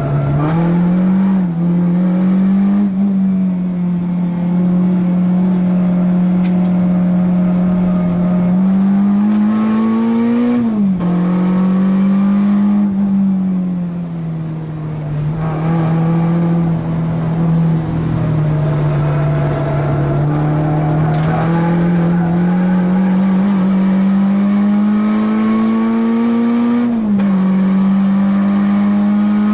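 Renault Clio 2 RS's 2.0-litre four-cylinder engine heard from inside the cabin at full effort on track, its pitch climbing steadily through the revs and dropping suddenly at each upshift, several times over. Around the middle the revs fall away more slowly and it goes a little quieter as the car slows for a corner.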